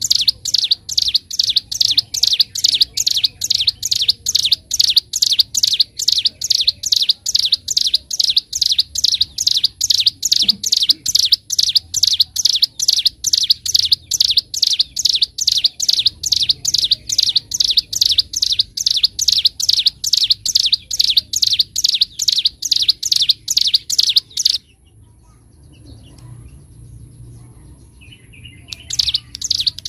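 Ciblek gunung, a prinia, singing its fast, drilling (ngebren) song: a long, even run of high chirping notes, about three a second. The run breaks off for about four seconds near the end, then starts again.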